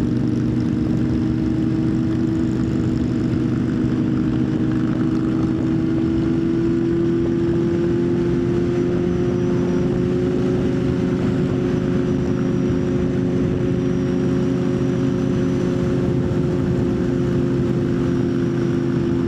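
Motorcycle engine running at a steady cruise, its pitch rising slowly over the first half and then holding even.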